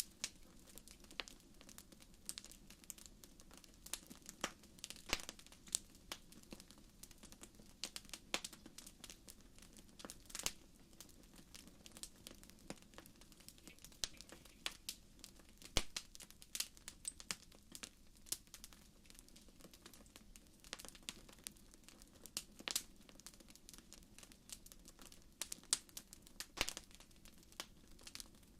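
Wood fire burning in a fireplace: irregular sharp crackles and pops over a soft, low hiss of flame.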